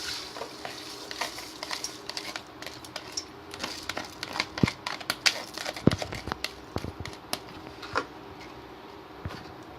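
Rinsed rice and lentils being poured into the rice cooker's pot of water, making a run of irregular small clicks and taps that are busiest in the middle and thin out near the end.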